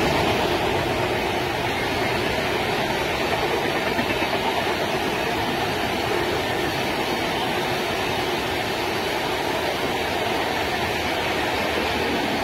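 A train running along the rails: a steady rumble and rattle with no breaks.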